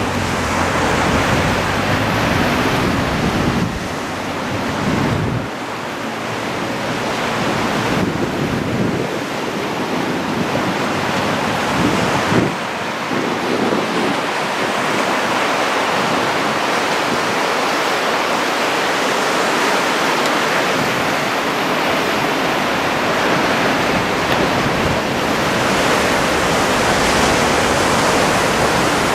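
Sea surf washing onto the beach as a steady wash of noise, from small waves of a flat-calm sea. Wind rumbles on the microphone, most strongly in the first five seconds.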